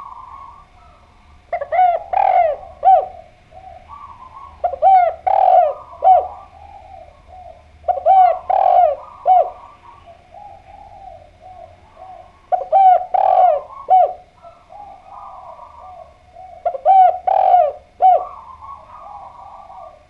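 Spotted dove (derkuku) cooing: five phrases, about one every four seconds, each a quick run of a few rolling coos. Fainter calls can be heard between them.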